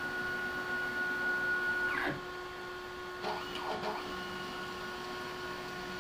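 Stepper motors of a homemade CNC machine on its first test run. A steady high whine glides down in pitch and stops about two seconds in, followed by several short moves, each a brief whine that rises and falls in pitch.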